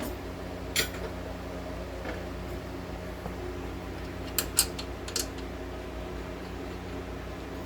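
A few sharp metallic clinks of tools and parts handled during suspension work: one about a second in, then three close together a little past halfway, over a steady shop-fan hum.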